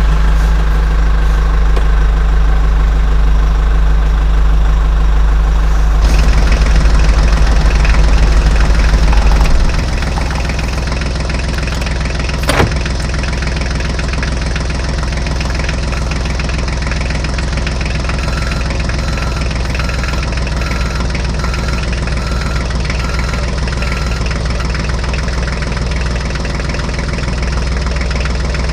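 Tractor engine running steadily, a little louder for the first ten seconds and then settling to a lower, even run. There is one sharp knock about twelve seconds in, and a faint beep repeats about once a second for several seconds in the second half.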